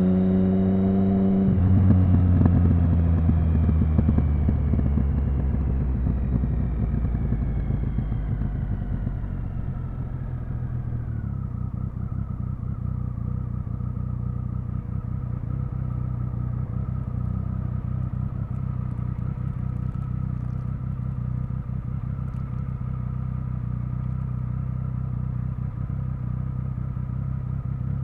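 Triumph Speed Triple 1050's inline three-cylinder engine rising briefly in revs, then slowing down for about ten seconds with a crackling exhaust as the revs fall. It then runs steadily at low revs, near idle.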